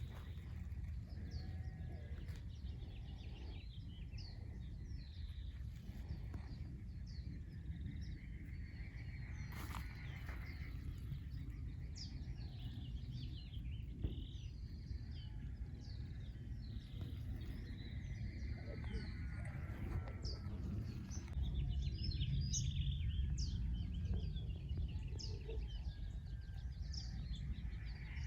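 Many small birds chirping and calling over a steady low rumble, with a longer trill at times. The rumble grows louder for a few seconds near the end.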